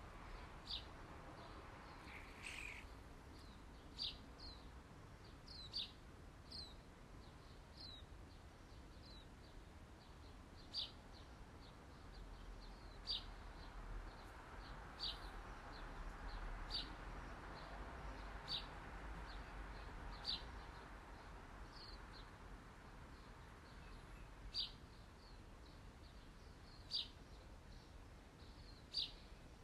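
A bird giving short, high chirps about every two seconds over a faint, steady hiss.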